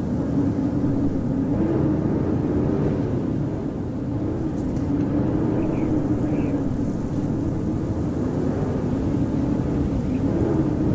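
Howling winter wind: a steady rush of wind with a low howling tone that rises and falls slowly.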